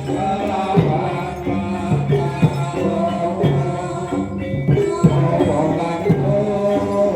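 Live Javanese gamelan music accompanying a jaranan horse dance: sharp drum strokes at a regular beat under ringing metal instruments, with singing.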